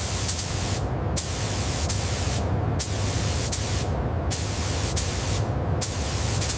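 Spray gun applying paint, hissing in passes that stop briefly about four times, over a steady low hum.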